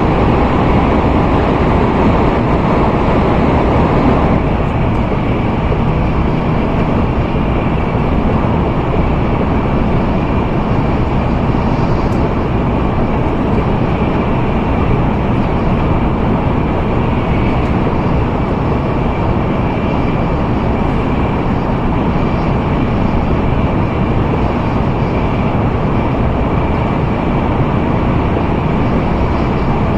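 Steady rushing and rumbling running noise of an N700A Shinkansen train at speed, heard inside the passenger cabin. It drops slightly in level about four seconds in.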